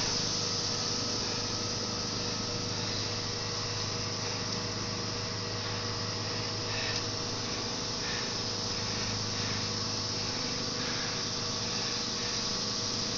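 Steady background hiss with a faint mechanical hum, unchanging throughout, and a few faint small sounds in the middle.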